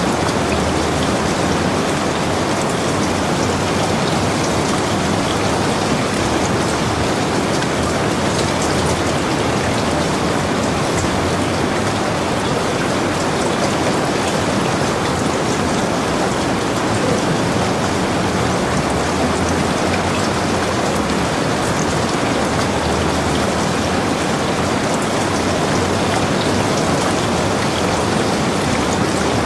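Heavy rain falling steadily on a log cabin, an even unbroken hiss with scattered drop ticks.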